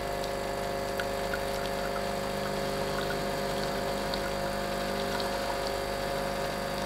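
Blue Pod LB4100 Clara espresso machine's pump running steadily while pulling a shot through a coffee pod: an even hum of several steady tones, with a few faint ticks.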